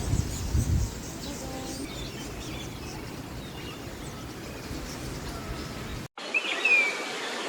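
Aviary ambience: several birds chirping and calling now and then over a steady background hiss. About six seconds in the sound cuts to a different background, and a clear whistled bird call follows.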